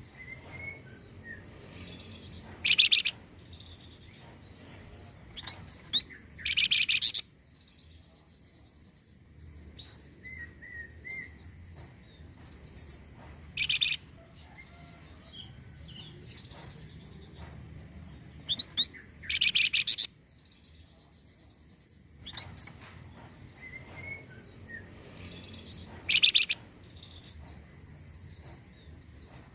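Flamboyan bird singing, a lure (pancingan) song recording: loud, harsh, buzzy bursts every few seconds, with softer chirps and short warbled phrases between them.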